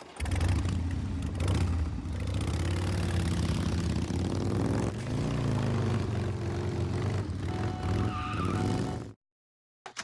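Motorcycle engine running hard as the bike rides off, its pitch rising and falling about halfway through. It cuts off abruptly about nine seconds in.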